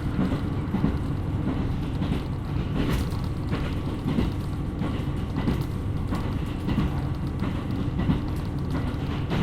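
KiHa 127 series diesel railcar running along the line: a steady low rumble of engine and wheels on rail, with occasional light clicks from the track.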